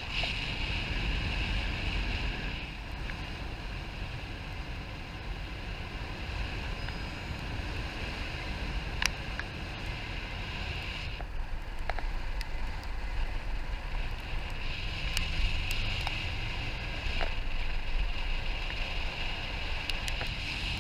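Wind rushing over the microphone, steady and gusting louder near the start and again in the last part, with a few sharp ticks.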